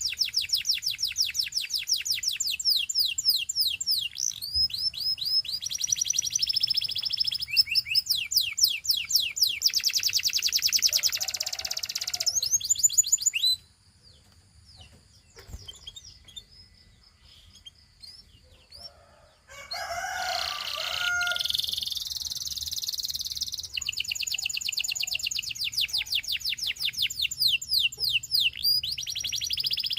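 Gloster canary singing long fast trills of rapidly repeated high notes. The song breaks off about thirteen seconds in for several seconds of near quiet with a few faint notes, then resumes with a harsher, rougher phrase before the trills return.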